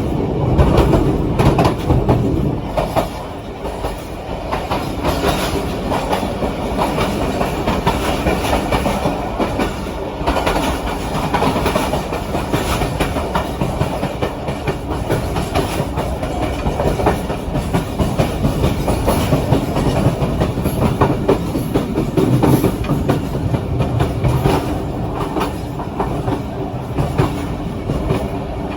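Train running along the track: a steady rumble with repeated clicks of the wheels passing over rail joints.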